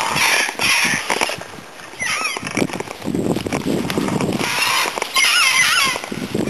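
Birds singing short warbling phrases, twice, over rustling and knocking handling noise from a camera being moved about.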